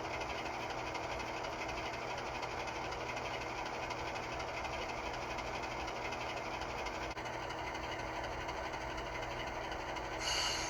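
Simulated diesel locomotive prime-mover sound from an HO scale model's Soundtraxx Tsunami2 sound decoder, running steadily, with a short burst of air hiss near the end.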